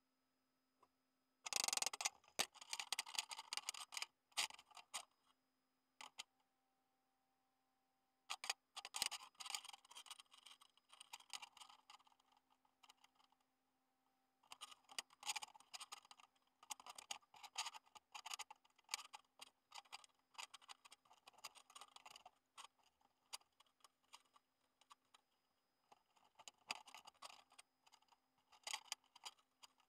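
Welder crackling in bursts of a few seconds at a time as the tubes of a mini bike frame are welded, each run of dense, irregular crackle stopping sharply, over a faint steady hum.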